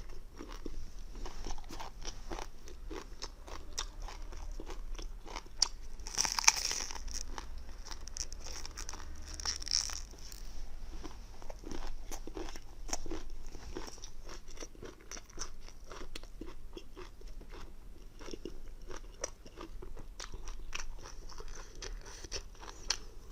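Close-miked crunching, biting and chewing of crunchy raw food, many small crackly bites and chews, with two louder brief hissing sounds about six and ten seconds in.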